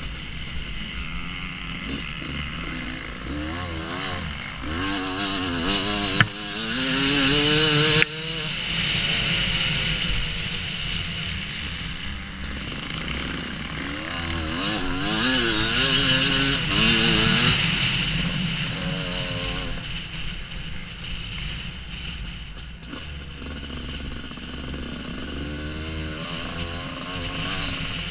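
Husqvarna WR250 two-stroke enduro motorcycle engine riding offroad, its pitch swinging up and down as the throttle is worked. It rises to two loud surges, one about a quarter of the way in and one about halfway, with sharp cuts as the throttle is shut after the first.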